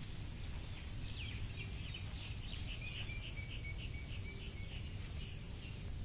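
A bird calling a quick series of short repeated notes, about three a second, for several seconds. Underneath is a steady high-pitched insect drone and a low rumble.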